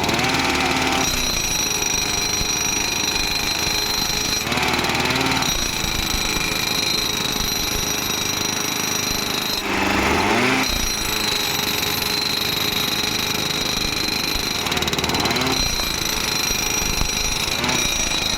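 Power tampers packing ballast under railway sleepers: a continuous hammering and vibrating with a steady high whine, and short louder bursts about every five seconds.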